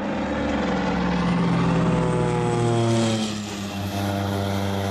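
Small propeller aircraft engine running, its pitch sagging slightly, with a brief dip in level about three seconds in before it settles into a steady drone.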